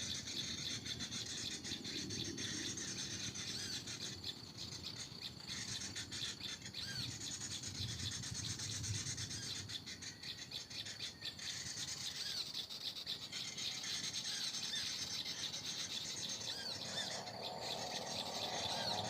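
Small birds chirping in short, repeated high notes over a steady high-pitched insect drone, with some faint rustling.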